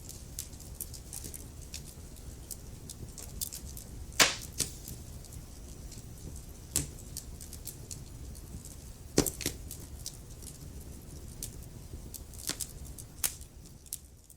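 Wood fire crackling in a fireplace: irregular sharp pops and snaps over a low steady rumble of the flames, the loudest pops about four and nine seconds in. The sound begins to fade out near the end.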